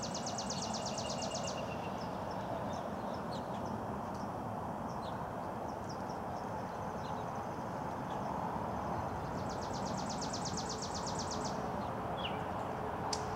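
Outdoor ambience: a steady rumble of background noise, with a songbird singing a rapid, even trill of about nine notes a second, about two seconds long, at the start and again about nine seconds in, and scattered short chirps between.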